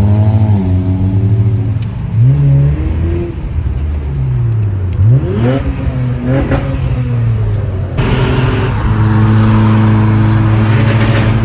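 Car engine accelerating hard, its pitch climbing and dropping several times as it revs up and shifts gears, then holding a steady drone for the last few seconds.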